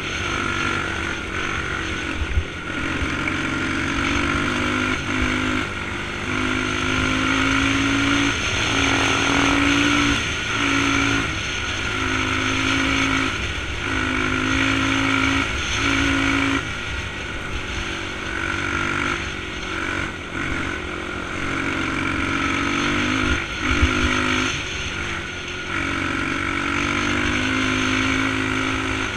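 Dirt bike engine running under way, its note repeatedly dropping and picking back up as the throttle is rolled off and on, over steady wind and road noise.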